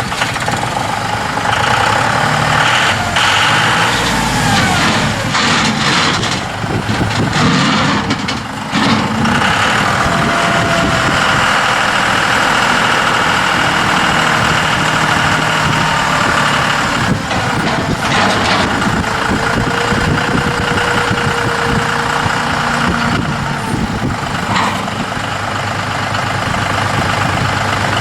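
John Deere 5303 tractor's three-cylinder turbo diesel engine running steadily, with a few short clunks along the way.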